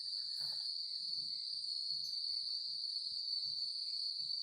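Cicadas singing in a steady, high-pitched drone, with faint low soft knocks underneath and a brief rustle about half a second in.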